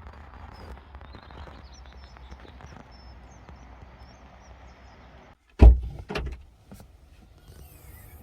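Two loud thuds about half a second apart, a little past halfway, over a faint steady background hum.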